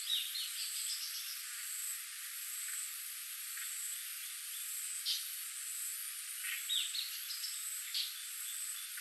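Tropical forest ambience: insects buzzing steadily at a high pitch, with one buzz pulsing evenly. Short high chirps and trills break in at the start, about five seconds in, and again a little later.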